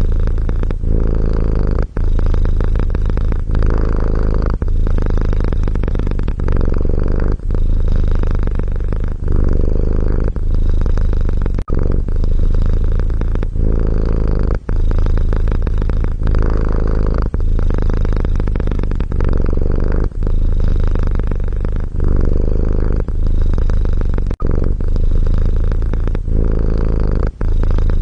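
Domestic cat purring continuously and low, with a brief break about every one and a half seconds.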